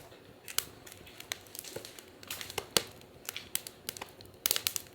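Wood fire crackling, with irregular sharp pops and snaps and a quick cluster of them near the end.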